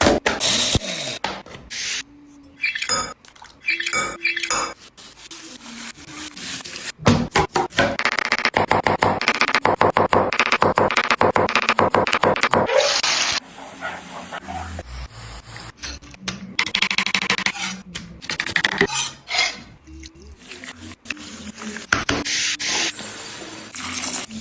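Kitchen cooking sounds in short cut-together clips: utensils scraping, rubbing and clinking against pots and pans, with a long run of quick scraping strokes near the middle.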